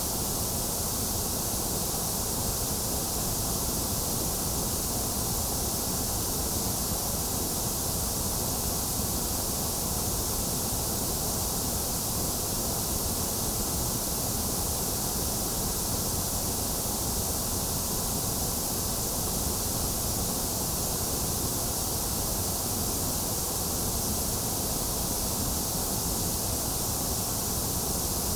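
Steady synthetic white noise: an even, unchanging hiss, strongest in the high treble.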